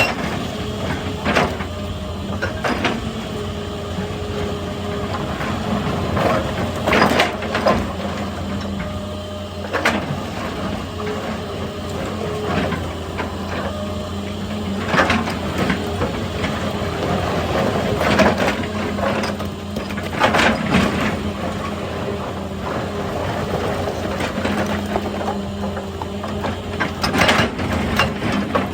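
Excavator's diesel engine running steadily, with irregular knocks and crunches of rock every few seconds as it works the rock.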